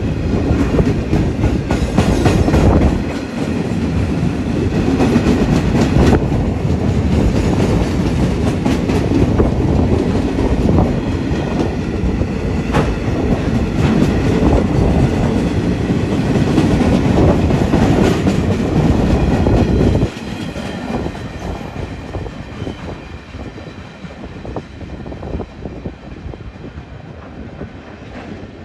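A train passing close by, its wheels clattering over the rail joints in a quick run of clicks. The passing sound drops off suddenly about 20 seconds in, and what remains fades away.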